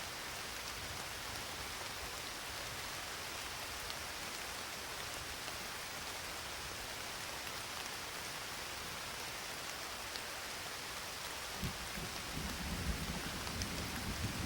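Steady rain falling with a few separate drops ticking. Near the end a low rumble of thunder comes in and grows.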